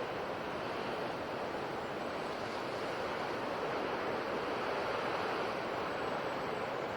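Sea waves washing on a shore: a steady rush of surf with only gentle swells in level and no distinct single break.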